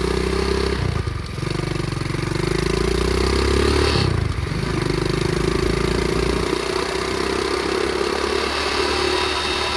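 Flywing pit bike engine running under way, its pitch dipping briefly about one second and four seconds in, with a steady humming drone over it. The rider puts the hum down to the protective heat cover vibrating heavily.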